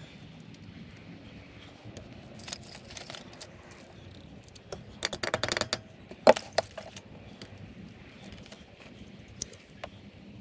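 Metal tools and parts clinking and rattling, in a cluster about two and a half seconds in and a denser jingling run around five seconds in, with one sharper knock just after six seconds.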